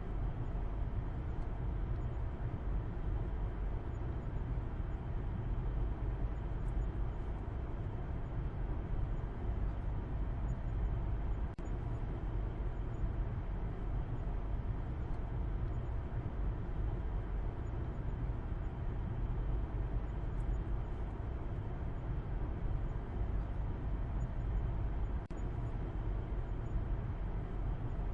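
Car driving at a steady speed: a constant low rumble of engine and road noise with no change in pitch.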